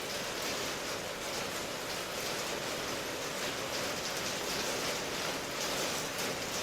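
Steady rainfall: an even, dense hiss of countless drops that holds at one level without let-up.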